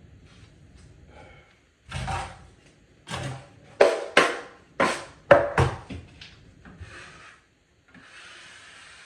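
Drywall knife scraping joint compound, a quick series of about eight short strokes, followed by a fainter steady hiss near the end.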